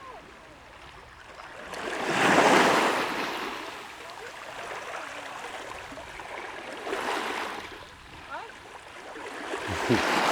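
Sea waves washing onto a stony shore, surging in three times; the first, about two seconds in, is the loudest.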